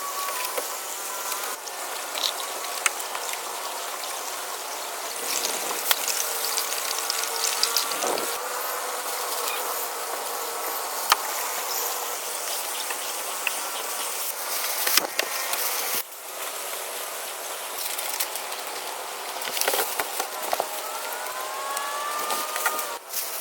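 Jungle ambience of insects buzzing and chirring steadily, with a few sharp knocks scattered through and some gliding calls near the end.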